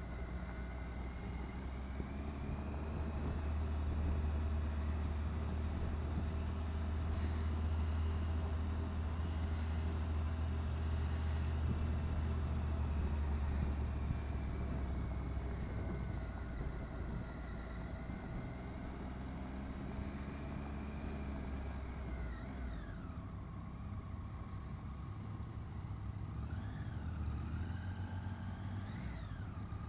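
Triumph Tiger XRx three-cylinder motorcycle engine pulling at low speed under a strong wind rumble on the microphone. The engine note holds and wavers gently, drops sharply about three-quarters of the way through as the bike slows, then rises and falls twice near the end as the throttle is worked.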